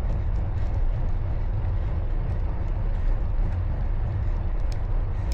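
Steady low rumble of wind on the microphone and road noise from riding a bicycle in traffic.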